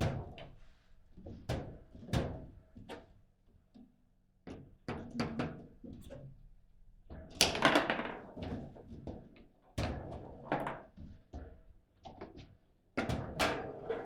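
Table football play: sharp, irregular knocks and clacks of the ball being struck by the rod figures and the rods banging, with a quiet moment about four seconds in and busy flurries of hits about seven seconds in and near the end.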